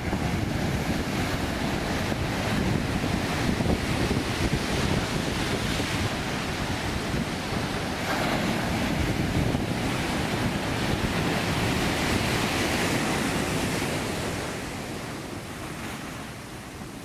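Heavy surf of a ground swell (mar de leva) crashing and washing on the beach, a loud continuous rush that swells and eases, with wind buffeting the microphone; it dies down somewhat in the last few seconds.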